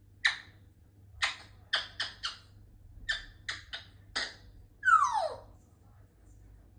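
African grey parrot making a string of short, sharp squeaky chirps and clicks, then one longer whistle about five seconds in that slides down steeply in pitch.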